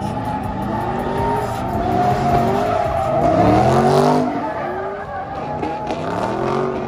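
Car engines revving up and down, with tires squealing as cars spin donuts in a burnout pit. The squeal swells loudest a little past halfway through.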